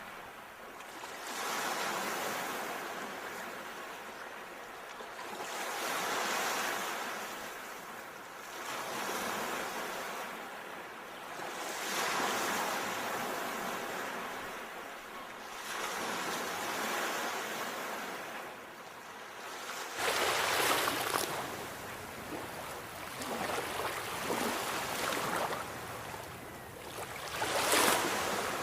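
Sea waves breaking and washing up the shore, rising and falling in slow swells about every four to five seconds. Past the middle the surf turns heavier, with two louder crashes, the last near the end.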